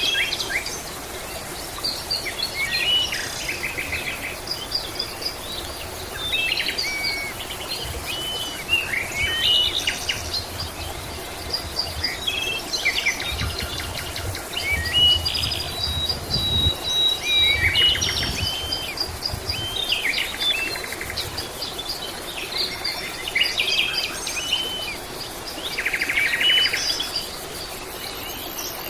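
Several songbirds calling and singing at once: short whistles, chirps and rapid trills overlapping throughout, with a faint steady high insect hum behind them.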